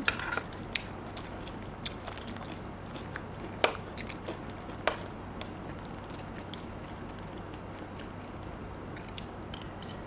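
Eating sounds: scattered chewing and crunching clicks from a meal of papaya salad and chicken feet, the sharpest about three and a half and five seconds in, over a low steady hum.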